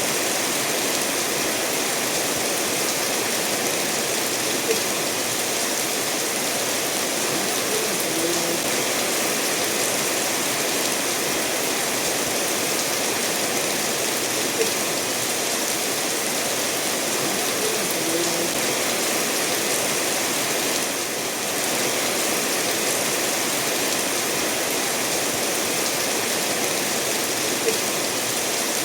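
Steady rainfall mixed with a stream running over stones, an even hiss throughout. A few brief louder ticks stand out about five, fifteen and twenty-eight seconds in.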